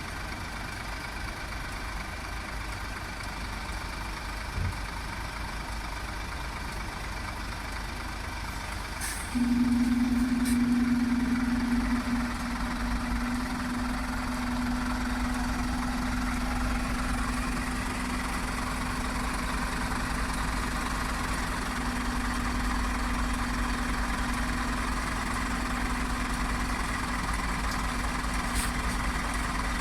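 Scania G 450 truck's diesel engine running under way, heard from the cab. About nine seconds in, a steady low drone comes up sharply, loudest for a few seconds, and then holds on.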